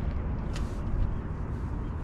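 Wind buffeting the microphone: a steady, fluttering low rumble, with a faint short tick about half a second in.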